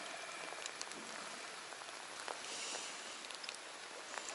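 Steady hiss of rain falling on the lake water around the boat, with a few faint ticks scattered through it.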